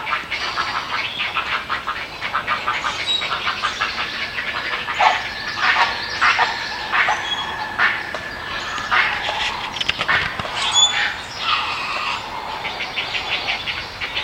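Young great blue herons in a rookery clacking their bills in rapid rattling runs, mixed with harsh squawking calls.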